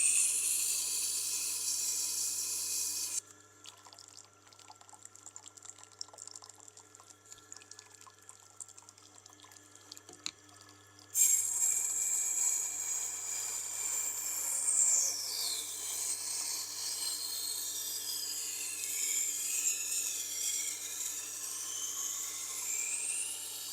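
A knife blade being ground on a Tormek's water-cooled grindstone, with a steady low motor hum underneath. The hissing grind stops about three seconds in, leaving only the hum and a few small clicks, then starts again about eleven seconds in with whistling tones that glide up and down as the blade is drawn along the stone.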